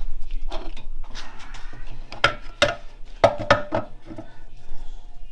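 Metal parts of a 4L65E automatic transmission clinking and clanking against each other and the bench as they are handled, with a quick run of sharp, briefly ringing metal clanks in the middle.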